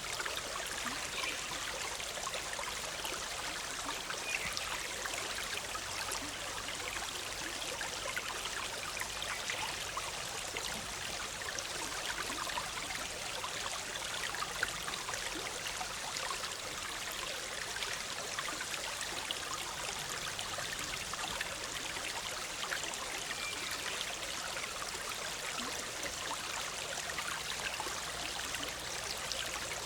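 A forest stream bubbling steadily, an even rush of water with fine trickling detail.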